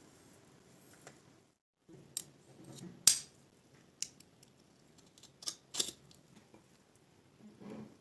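Hands handling metal parts and equipment, making a few sharp clicks and knocks; the loudest comes about three seconds in, with a soft rustle near the end.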